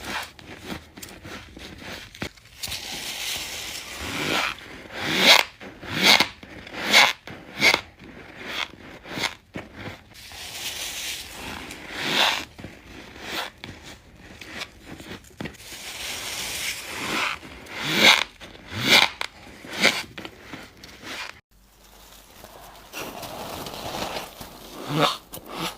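Close-miked bites into chunks of freezer frost, each bite a short crisp crunch, coming in quick runs of several per second with a brief lull just after 21 seconds.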